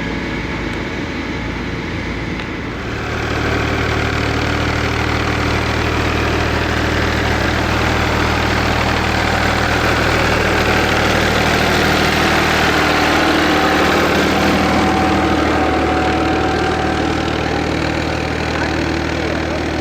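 Eicher tractor's air-cooled diesel engine running steadily. About three seconds in it grows louder and fuller.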